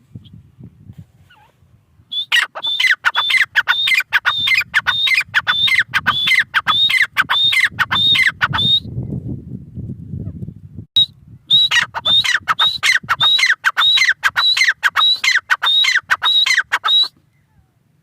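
Grey francolin calling: two long runs of loud, rapid, repeated notes, each one sharp and falling in pitch, about three a second, with a pause of a few seconds between the runs.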